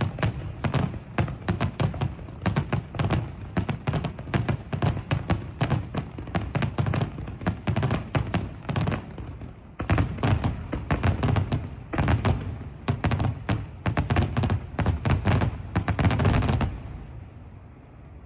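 Fireworks bursting in a rapid, dense barrage of bangs and deep booms, with a brief lull just before halfway. It stops abruptly a couple of seconds before the end, leaving a fading rumble.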